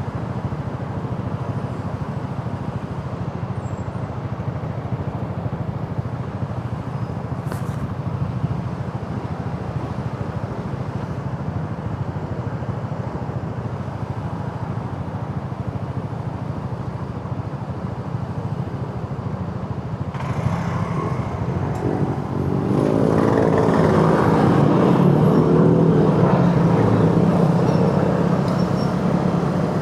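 Motorcycle riding along a road: steady engine and road noise, growing louder about two-thirds of the way through as a pitched engine drone comes up and holds.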